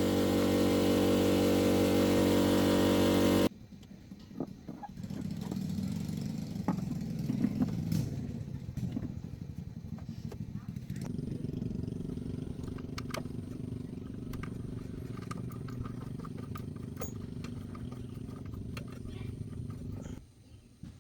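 A vehicle engine running loudly and evenly, then cut off suddenly a few seconds in. A quieter engine-like hum then runs steadily for most of the rest, with a few knocks, and stops abruptly near the end.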